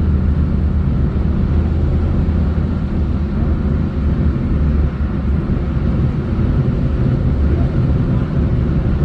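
Steady low drone of a vehicle driving on the road, engine hum and tyre noise running without change.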